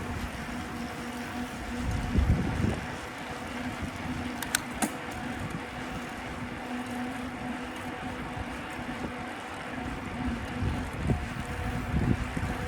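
Street traffic noise heard from a moving bicycle, with a steady engine-like hum and wind buffeting the microphone in gusts. A brief sharp click comes about four and a half seconds in.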